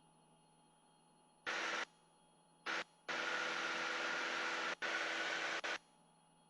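Cockpit intercom opening and closing in four abrupt bursts, the longest about two and a half seconds: each time it passes the hiss and drone of the light airplane's engine and wind picked up by a headset microphone, with no words. Between the bursts only a faint steady hum.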